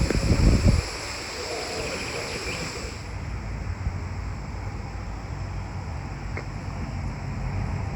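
Wind buffeting the microphone for about the first second, then a steady low rumble of wind and outdoor ambience.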